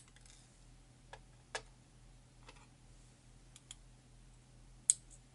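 Small metal lock pins and tweezers being handled while a pin-tumbler lock is disassembled: a few light, scattered clicks as pins are picked out and set down, the sharpest about five seconds in.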